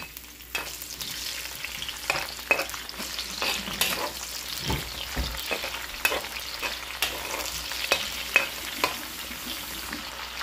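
Onions, garlic, pepper and galangal frying in hot oil, with a steady sizzle. A utensil stirs them, knocking and scraping against the pan many times.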